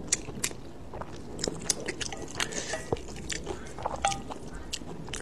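Chewing a mouthful of spicy mixed noodles, with frequent short mouth clicks and smacks.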